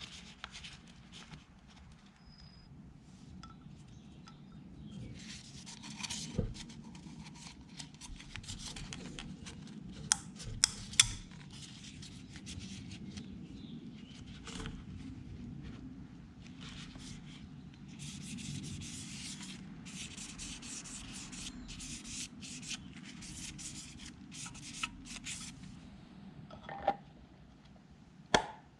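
Hands fitting a new O-ring and cartridge element to an oil filter cap: ongoing rubbing and scraping, with several sharp clicks and knocks, the loudest about ten and eleven seconds in and near the end.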